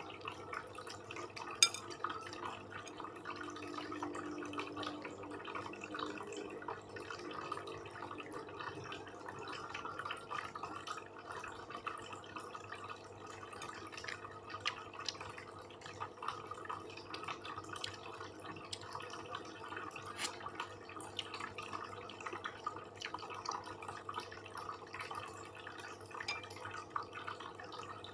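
Close-miked eating sounds: wet chewing with many small irregular mouth clicks. A single sharp click stands out about a second and a half in.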